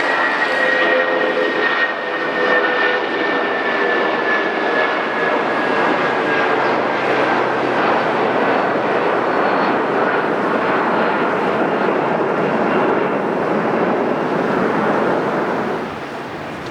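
Jet airliner engines passing close by: a loud, steady rushing noise with a thin whine that slowly falls in pitch, easing off about a second before the end.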